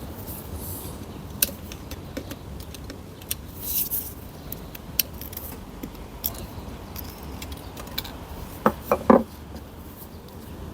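Small metal parts clicking and clinking as they are handled, with a short hiss about four seconds in and three quick knocks near the end.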